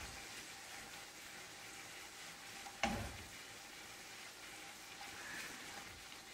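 Lobster tails frying in butter and oil in a pan, a steady sizzle, with one sharp knock about three seconds in as a tail is turned over with tongs.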